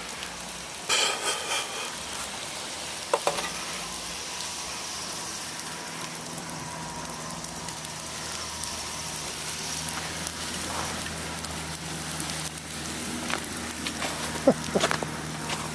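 A steady, rain-like crackling hiss of wet sleet and thawing ice, with a car engine running as it tries to climb the icy road. There are a few sharp knocks or scrapes: one about a second in, another around three seconds, and a cluster near the end.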